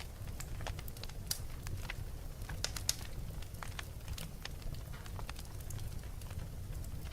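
Fire crackling: irregular sharp pops and snaps, a small cluster of louder ones about three seconds in, over a steady low rumble.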